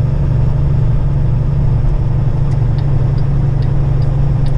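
Kenworth semi truck's diesel engine droning steadily inside the cab while driving. From about two and a half seconds in, a light ticking sounds about two to three times a second.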